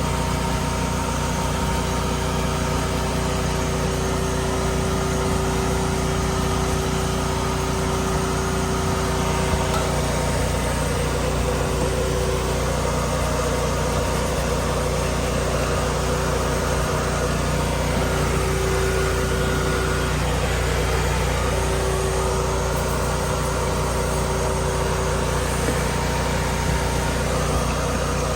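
A motor running steadily with a constant pitched hum, like an engine idling.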